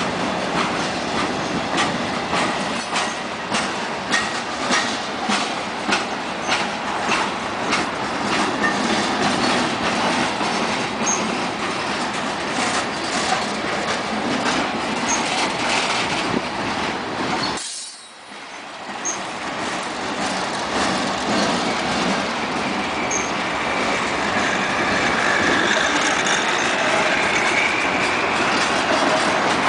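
Freight train cars rolling past on the rails, the wheels clicking in a steady rhythm over the rail joints. The sound drops out briefly about two-thirds of the way through, then returns as a steadier rolling rumble with a faint wheel squeal near the end.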